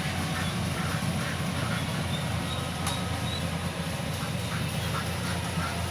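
Rice combine harvester's engine running steadily, with short, repeated squawk-like sounds over it.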